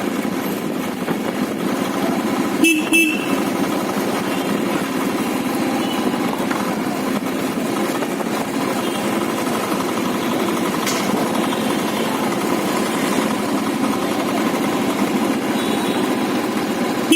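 Motorcycle running steadily on the move, with a horn tooted twice in quick succession about three seconds in.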